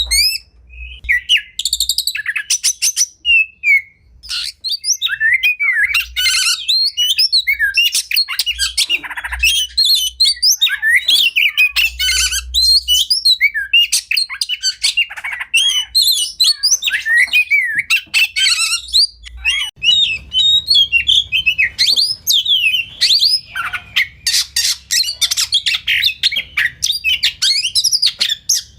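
Oriental magpie-robin (kacer) singing a long, varied song of slurred whistles, trills and chattering phrases, with dense rapid-fire runs of notes in the second half. A faint low hum runs beneath it.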